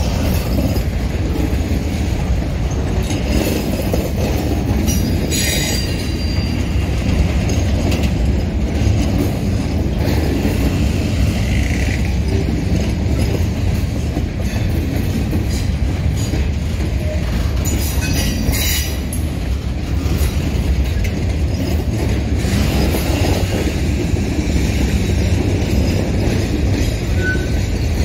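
Slow-rolling freight train of boxcars passing close by: a steady low rumble of steel wheels on rail, with a few brief high-pitched wheel squeals.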